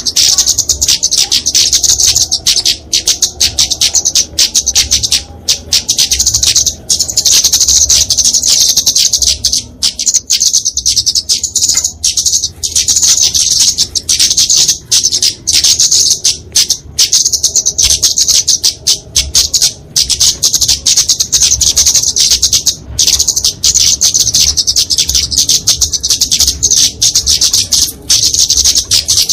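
Flowerpecker (kemade, genus Dicaeum) giving a rapid, unbroken stream of high, thin chattering calls with only brief pauses: the aggressive 'fighting' song used as a lure for small birds.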